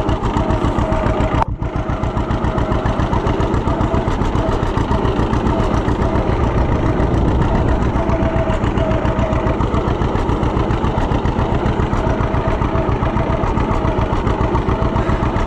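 Two-cylinder tractor engine running with a steady, rapid firing beat. The sound dips briefly about a second and a half in.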